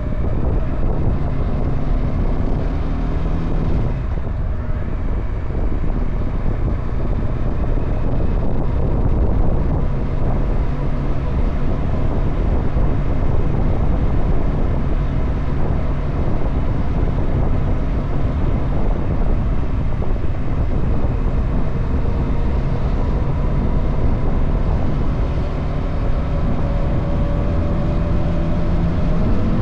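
Motorcycle engine running under way, with wind rushing over the microphone. Near the end the engine note rises as it revs up.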